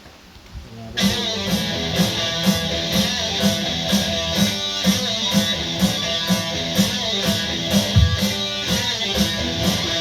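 Music played back from a Denon DCD-210 CD player, starting about a second in: a guitar-led track with a steady beat of about two beats a second.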